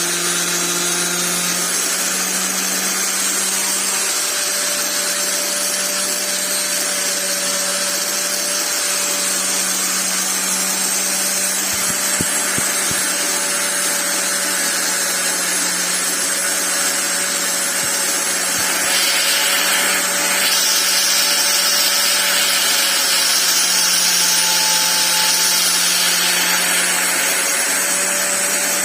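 Electric angle grinder running steadily, its motor hum wavering slightly in pitch, with a louder, hissier stretch about two-thirds of the way through.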